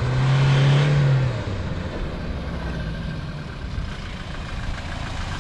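Toyota Fortuner's engine held at high revs while pushing through mud, then dropping back about a second in to a lower, steady run.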